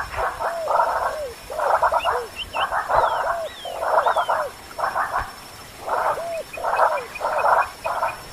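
Animal calls: rough, rapidly pulsed croaking bursts repeated about twice a second, with a few thin whistled chirps above them.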